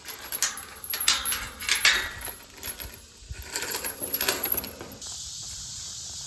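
Metal gate latch and chain clinking and rattling as a farm gate is worked open, a run of sharp metallic clinks over about four and a half seconds. About five seconds in it gives way abruptly to a steady hiss.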